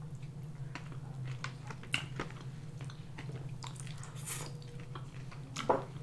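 Close-miked chewing of a sushi roll, with irregular soft wet smacks and clicks of the mouth, over a steady low hum.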